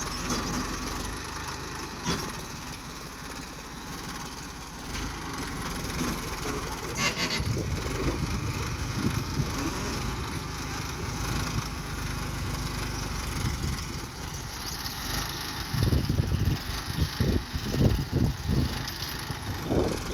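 Tractor diesel engine running, with uneven bursts of louder low rumbling and thumps over the last few seconds.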